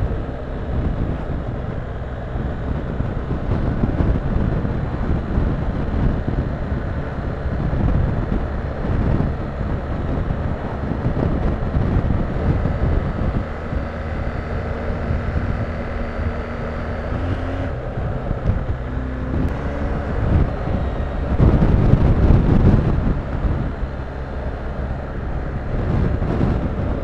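BMW R1250GS boxer-twin motorcycle engine running at road speed, with wind noise over the microphone. The engine note shifts pitch now and then and swells louder for a second or two about two-thirds of the way through.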